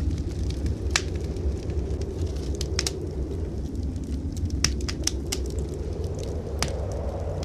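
Wood fire in a fireplace crackling, with several sharp irregular pops, a few close together around the middle, over a low steady rumble.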